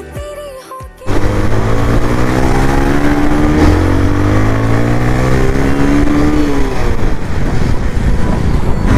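Bajaj Pulsar 180F single-cylinder engine through an aftermarket Akrapovic slip-on exhaust, heard loud on the move. It cuts in suddenly about a second in, the exhaust note climbs steadily as the bike accelerates, then drops off as the throttle closes.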